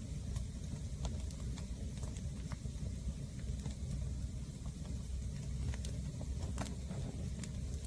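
Green firewood burning, crackling and popping with sharp irregular snaps over a steady low rumble.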